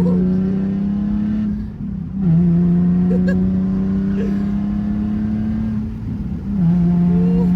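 Nissan 370Z's V6 running through a loud aftermarket exhaust, pulling through the gears. The engine note climbs slowly and falls back at each shift, about two seconds in and again near the end.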